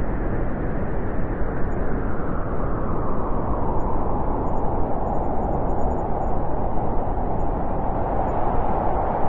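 Steady wind blowing: an even, low rushing noise with no gusts or breaks.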